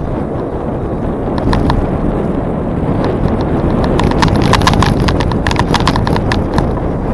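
Wind rushing over the microphone of a moving bicycle, with a run of quick, sharp clicks that grows densest about four to six and a half seconds in.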